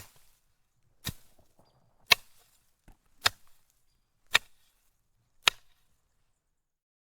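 Sharp knocks or strikes, about one a second, six in all, each with a brief tail, then they stop.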